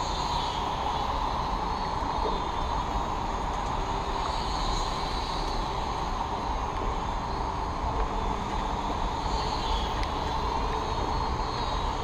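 Syma X5C toy quadcopter flying, its small brushed motors whining, the pitch rising and falling as it manoeuvres, over a steady hiss of rain.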